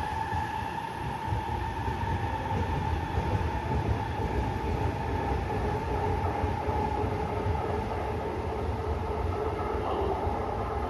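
Tokyo Metro 05 series electric train pulling out of the station, with a steady rumble of wheels on rail and a steady electric motor tone.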